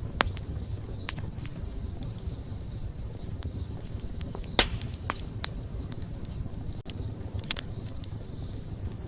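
Wood campfire burning: a steady low rumble of flames with scattered sharp crackles and pops, the loudest about halfway through.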